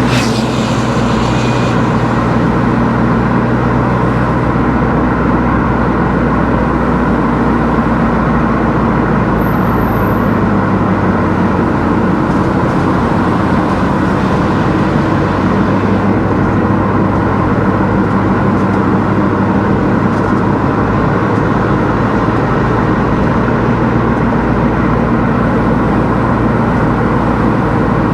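A car being driven at steady speed: engine hum under a constant rush of tyre and road noise. The engine note shifts slightly in pitch a few seconds in.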